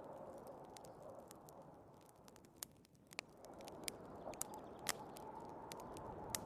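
Wood fire crackling, with irregular sharp pops and snaps, over the steady rush of storm wind, which dies down briefly about halfway through and then swells back.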